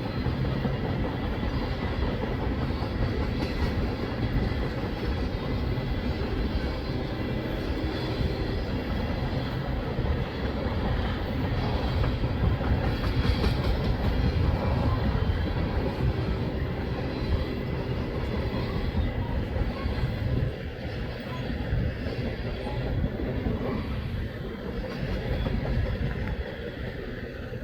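Norfolk Southern unit freight train rolling past: a steady, heavy rumble of the cars' wheels on the rails, easing slightly near the end.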